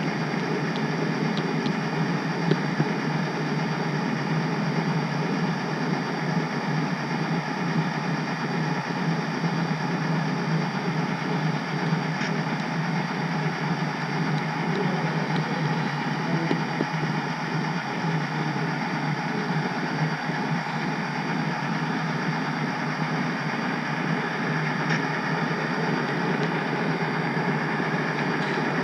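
HO scale model train running on the layout, heard from on board: a steady mechanical whir and rumble with a few faint ticks.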